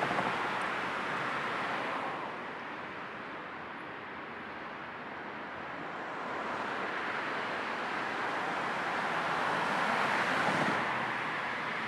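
Road noise of a moving car: a steady rush of tyres and wind, easing off about two seconds in and building up again toward the end.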